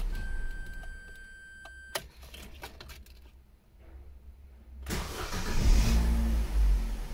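The Opel Combo's petrol engine, which has been stuttering at idle, stops and runs down. A thin steady electronic whine and a sharp click follow about two seconds in. About five seconds in, the starter cranks and the engine fires and settles into running.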